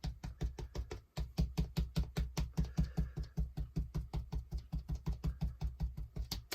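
Foam sponge rapidly dabbing white gesso onto black card, a fast even tapping of about six or seven pats a second, with a short break about a second in.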